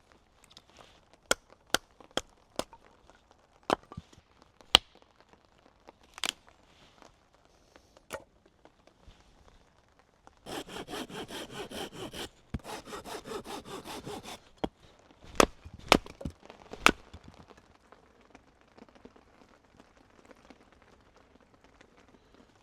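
Firewood being processed: a run of sharp, separate chops on wood, then two bouts of quick back-and-forth hand sawing through a log, then a few more loud chops.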